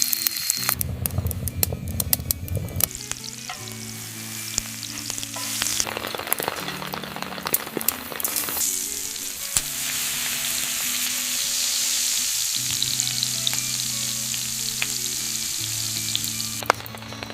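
Food sizzling and crackling as it fries in hot fat, with scattered clicks, settling into a steady loud sizzle about halfway through that cuts off suddenly near the end. Soft background music plays underneath.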